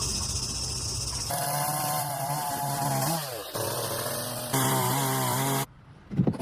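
Electric power tool motor running in a string of short clips, its pitch falling as it spins down about three seconds in. The sound changes abruptly between clips and drops out briefly near the end before a few sharp clicks.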